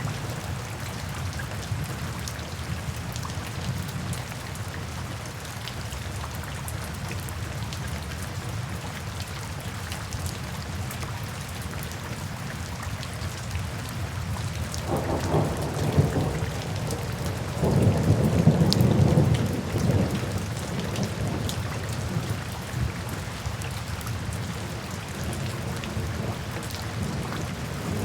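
Steady rain with low rolls of thunder. The thunder swells about halfway through and is loudest a few seconds after that.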